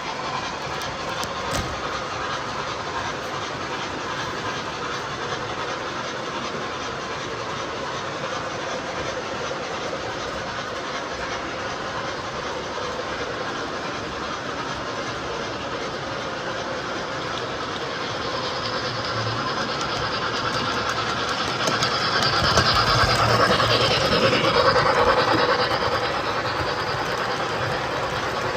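MTH model train running on its track with a steady rolling rattle; it grows louder as it passes close by about two-thirds of the way in, then fades back.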